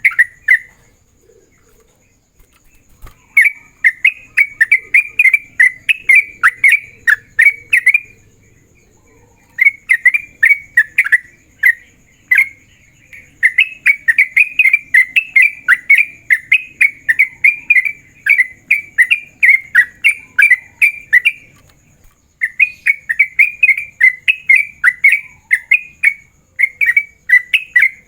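Yellow-vented bulbul (trucukan) singing its rapid chattering 'ropel' song, the call it uses to challenge rival males. It comes in runs of quick repeated notes lasting several seconds each, broken by short pauses.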